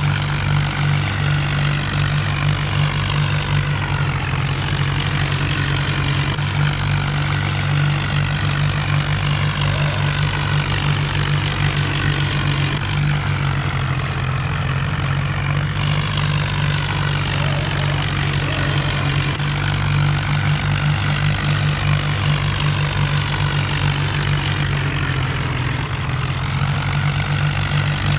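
Tractor diesel engine running steadily, with no break or rev change.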